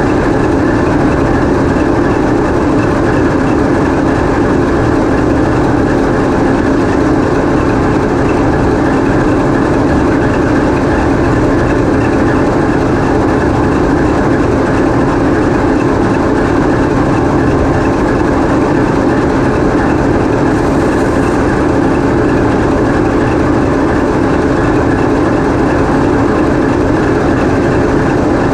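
TEP70 passenger diesel locomotive's 16-cylinder 2A-5D49 diesel engine running steadily, heard loud from inside the locomotive's engine room.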